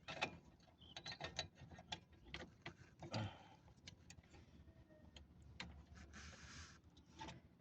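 Irregular small clicks, taps and knocks of tools and small parts being handled, with a short hiss about six seconds in.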